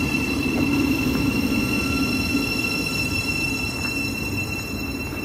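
Thameslink Class 700 electric train moving slowly beside the platform: a steady whine that falls slowly in pitch over a low rumble, typical of the train braking to a stop.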